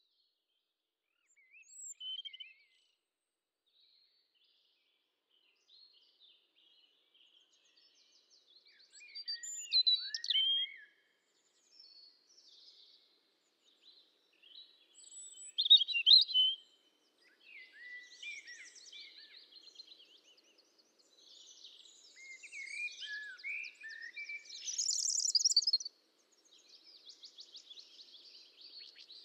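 Small birds chirping and twittering in short phrases with pauses between, the calls coming thicker in the second half.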